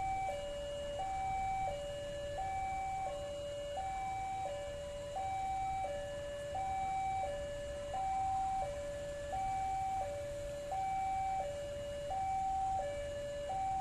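Electronic level-crossing warning alarm sounding a steady two-tone hi-lo signal, a higher and a lower note alternating about every 0.7 seconds, over a low rumble of traffic or machinery.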